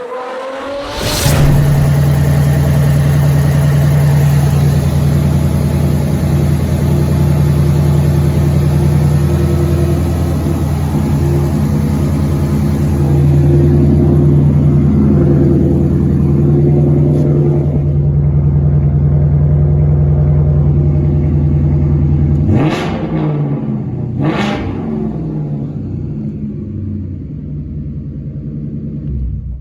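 Ford 5.0 Coyote V8 (Gen 2, DOHC) firing up about a second in and running steadily. Near the end it is blipped twice in quick revs, then drops back to a steady idle.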